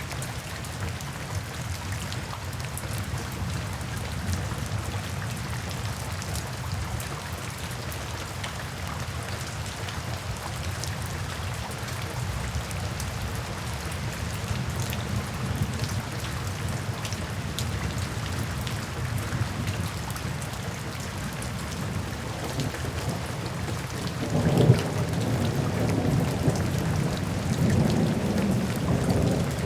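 Steady rain falling, with thunder rumbling low underneath. About 24 seconds in a louder clap of thunder breaks and rolls on to the end.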